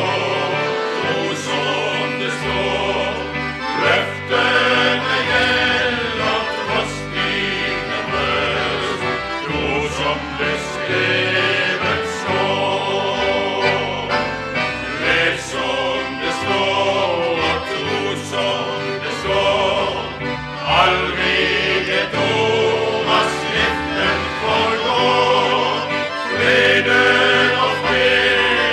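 A male vocal group sings a Norwegian gospel song in parts, with instrumental accompaniment holding sustained bass notes.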